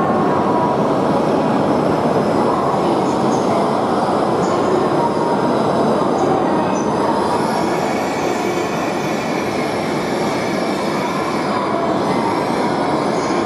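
E5-series shinkansen pulling into a station and slowing to a stop: a steady rumble of wheels and running gear, with a faint high whine from about halfway through.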